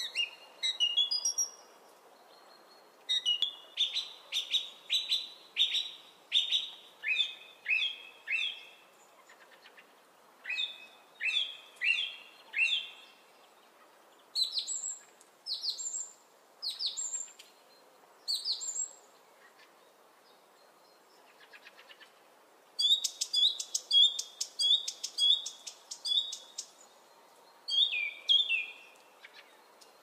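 A bird singing: phrases of quick, clear, downslurred whistled notes, each note repeated several times in a row, with pauses of a second or more between phrases. A faint steady hiss lies beneath.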